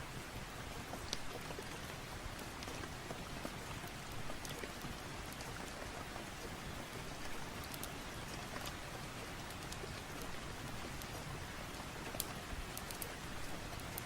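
Steady rain falling, an even hiss with sharp little clicks scattered through it.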